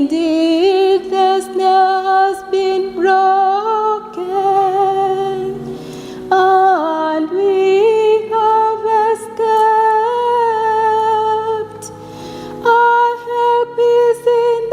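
Slow sung psalm: a singing voice carries the melody in long held notes with a slight waver, over steady lower notes held underneath.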